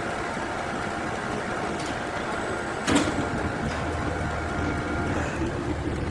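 Sawmill machinery running steadily, with one sharp clank about halfway through.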